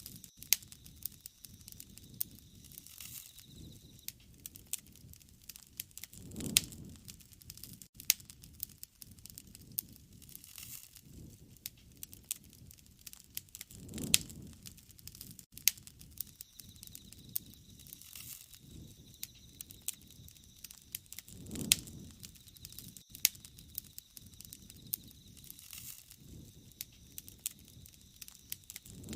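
Wood fire crackling, with frequent sharp pops and snaps and a soft low rush of flame returning about every seven seconds.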